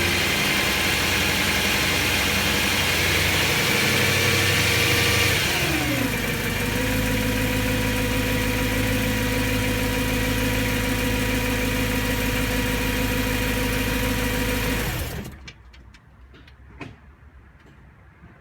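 BMW M3's S65 V8 engine running, its revs dropping about six seconds in to a steady idle, then switched off about fifteen seconds in, leaving a few faint clicks. The owner hears a ticking from it that persists after new rod bearings and fears it is not normal.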